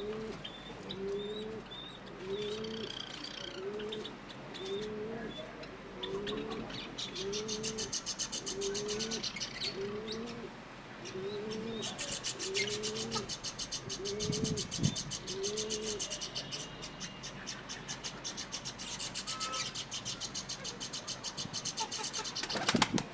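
Pigeon cooing in a steady series of short rising-and-falling notes, about one a second, stopping about two-thirds of the way through. Small birds chirp rapidly and continuously in a higher register over the second half.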